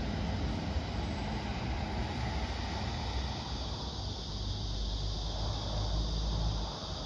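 Train approaching along the line, a steady low rumble.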